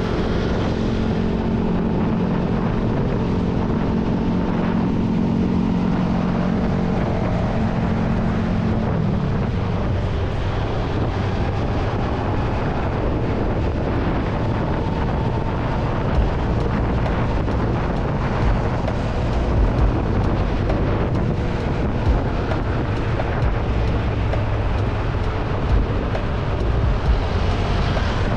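Motorcycle engine running steadily while riding, under heavy wind noise on the microphone; about nine seconds in the engine's steady tone drops away, as if the throttle is eased off, leaving mostly wind rush and road rumble with occasional gusts.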